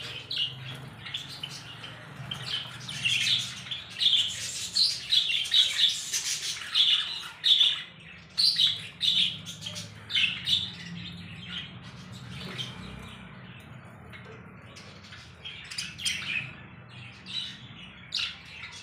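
Several small birds chirping and squawking in quick, overlapping short calls, thinning out for a few seconds past the middle before picking up again. A faint steady low hum runs underneath.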